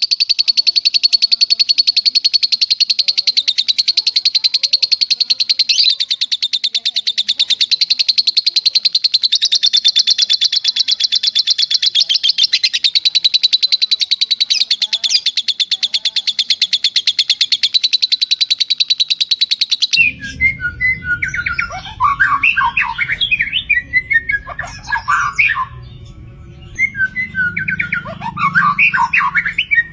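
Lovebird's long continuous trill, a very fast, high, unbroken run of repeated notes. About two-thirds of the way in it cuts off abruptly, giving way to another songbird's separate, varied song phrases over a low background rumble.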